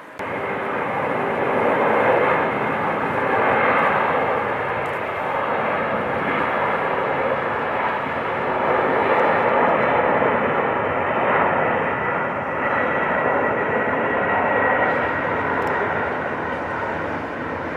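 Three-engine McDonnell Douglas MD-11F freighter's jet engines at takeoff power: a loud, steady roar that starts abruptly and swells and eases a little, with a faint whine in the middle.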